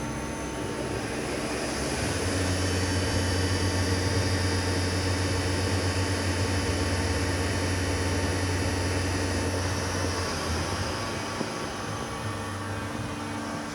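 Sachman T10 CNC bed milling machine running, a steady mechanical hum with several held tones. It grows louder about two seconds in, with a strong low hum and a higher hiss, and eases back about ten seconds in.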